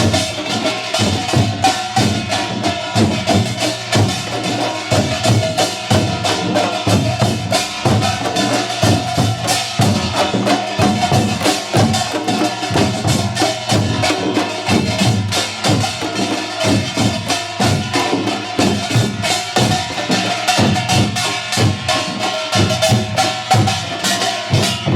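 Korean pungmul percussion ensemble (janggu and kkwaenggwari) playing a fast, continuous rhythm: dense, even drum strokes over steady ringing metal tones.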